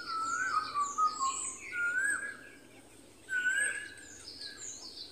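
Songbirds singing: a short whistled phrase that rises and falls, repeated about every one and a half to two seconds, over quick high chirps.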